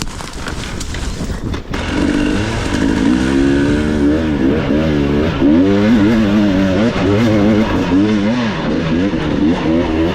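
Enduro motorcycle engine revving, the throttle worked on and off so the pitch rises and falls again and again. It grows much louder about two seconds in as the bike comes close.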